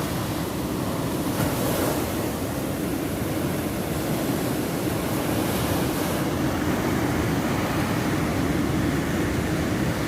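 Ocean surf breaking on the shore, a steady low rumble of waves.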